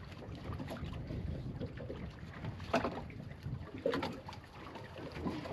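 Wind and water noise on a boat at sea: a steady low rumble, with two brief louder sounds about three and four seconds in.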